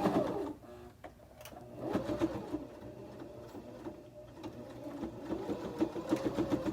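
Electric sewing machine stitching a seam in cotton fabric. It slows to a stop about half a second in, then runs again in short spurts.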